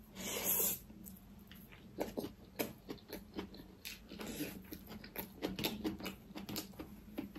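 Close-up mouth sounds of a person eating rice and greens by hand: a brief noisy rush as the handful goes in, then soft repeated wet smacks and clicks of chewing.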